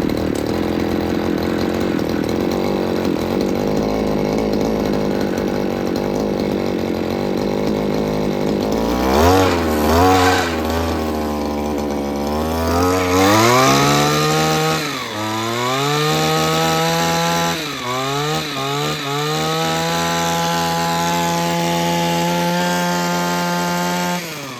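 Einhell two-stroke petrol hedge trimmer engine running just after starting: it runs steadily at low revs for about nine seconds, then is revved up and down several times with the throttle before holding at high revs, and drops away near the end.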